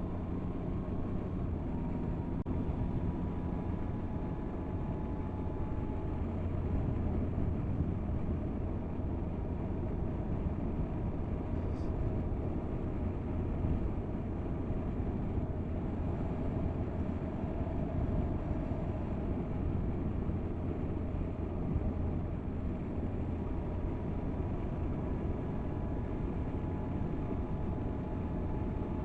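Motorcycle engine running steadily at road speed, with wind and road noise.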